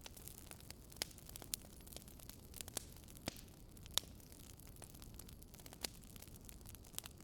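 Wood fire burning in a fireplace: irregular sharp crackles and pops from the logs over a faint steady hiss, the loudest pops about a second and a half and four seconds in.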